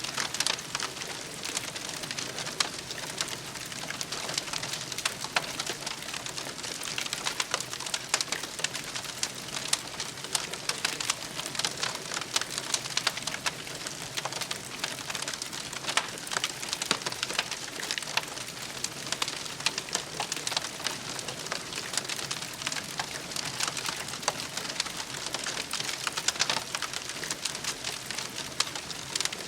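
Campfire crackling steadily: a dense run of small pops and snaps over a soft hiss.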